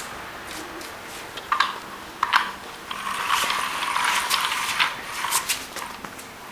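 Clicking and rattling of plastic toy truck parts being handled: a couple of sharp clicks, then a busier stretch of rattling and clicking in the middle.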